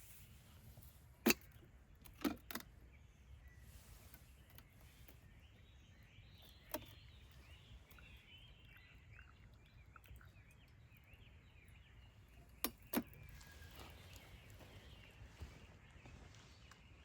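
Birds singing and calling softly over a low steady outdoor hum, broken by a few sharp knocks: one about a second in, a pair soon after, one near the middle, and a close pair later on.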